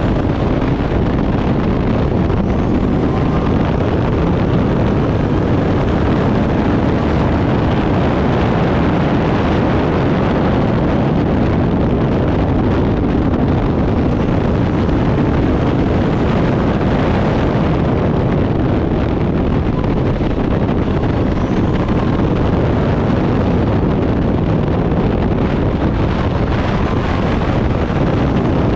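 Turbocharged Backdraft Cobra race car at speed: engine noise smothered by heavy wind buffeting on the microphone, at a steady level.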